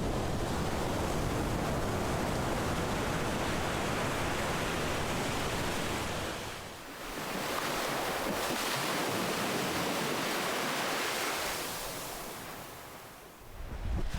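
Ocean surf washing in a continuous rush. It eases off briefly about seven seconds in, fades again near the end, and swells back up as the next wave breaks.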